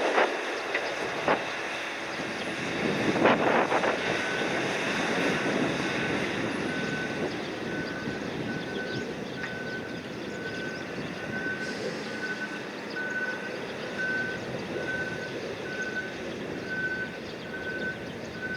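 A warning beeper on cargo-handling machinery sounding evenly spaced beeps, a little more than one a second, starting about four seconds in, over the steady running of engines and machinery. Two loud clanks come near the start.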